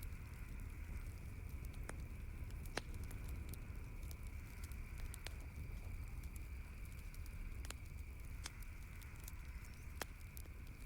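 Wood campfire crackling, with about five sharp pops spaced a couple of seconds apart over a steady low rumble and hiss.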